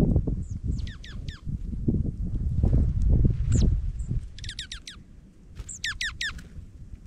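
Dark-eyed juncos calling: short, sharp, downward-sliding chip notes in quick clusters of three to five, the last cluster near the end. Under the first half is a loud, low rustling and knocking close to the microphone that dies away a little after the middle.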